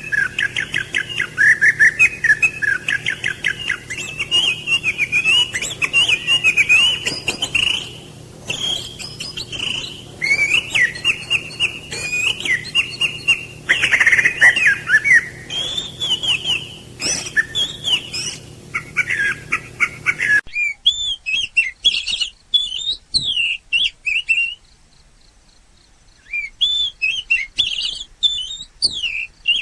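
Small songbirds chirping and twittering in fast, high runs of notes, one call after another. About two-thirds of the way through, the faint background hum drops out and the chirping goes on cleaner, with a short pause near the end.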